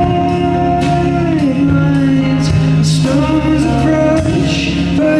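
Live band music with singing: steady instrumental playing, with a note held for about the first second and a half before the melody moves on.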